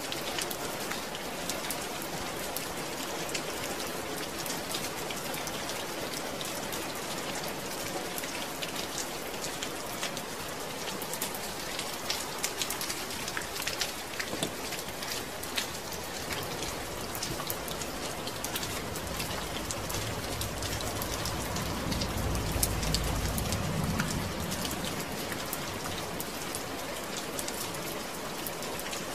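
Steady rain falling, with the fine patter of many drops hitting a surface. A low rumble swells and fades about 20 to 25 seconds in.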